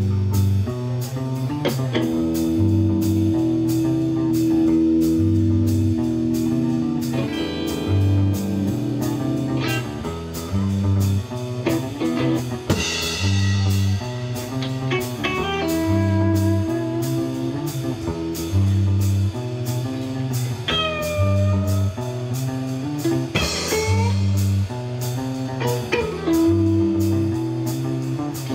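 Rock band playing: electric guitar with bent notes over a repeating bass line and a drum kit keeping a steady beat.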